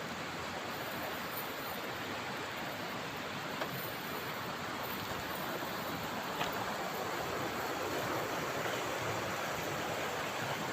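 Steady rushing of flowing river water, with a couple of faint small clicks.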